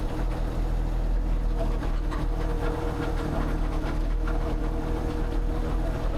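An engine running steadily at a constant speed, with light scattered clicks and knocks over it.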